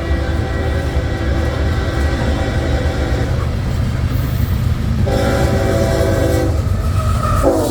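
CSX freight locomotive sounding its multi-note horn in two long blasts, the first about three seconds long and the second shorter, over the steady low rumble of the passing train.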